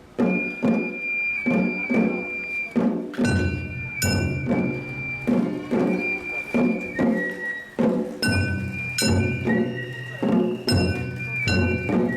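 Japanese festival float music (hayashi): a taiko drum beating a steady rhythm about twice a second while a bamboo flute plays held high notes.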